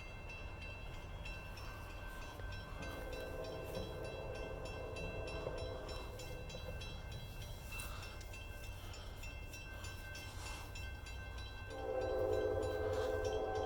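Approaching Union Pacific freight locomotive sounding its multi-chime air horn in two long chords, the second louder, over a steady low rumble.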